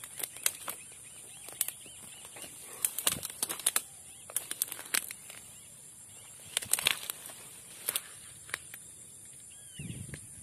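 Irregular rustling and sharp crackles of vegetation being pushed through on foot, over a steady high drone of insects; a few short chirps near the end.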